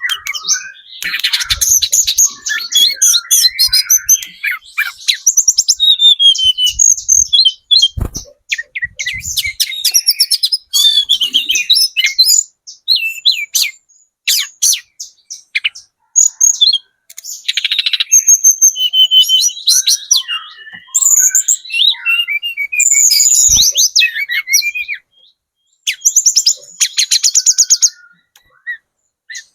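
A tledekan gunung trotol, a songbird kept by Indonesian bird keepers, singing a fast, varied high-pitched song of chirps, rattling trills and twittering phrases broken by short pauses. A lure song ('pancingan') meant to make other birds answer.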